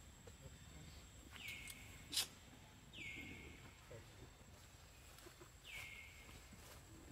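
A bird calling three times, each call a quick downward slide that settles on a steady high note for about half a second, over faint outdoor background. A single sharp click about two seconds in is the loudest sound.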